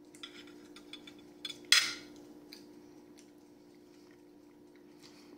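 Soft mouth clicks of someone chewing a bite of roast goose, then a single sharp clink of cutlery against a dish a little under two seconds in, over a steady low hum.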